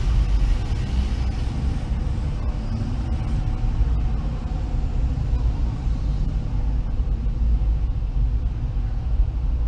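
Steady low engine and road rumble of a car rolling slowly, picked up by a dash camera inside the car, with a few faint ticks a few seconds in.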